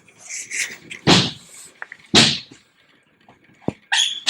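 A few short thumps and scuffs about a second apart, with a sharp click near the end, from a boat's center console storage compartment being handled and its contents moved.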